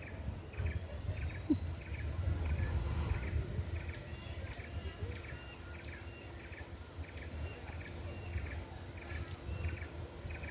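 Rhythmic high chirping calls, about two a second, over a steady low rumble.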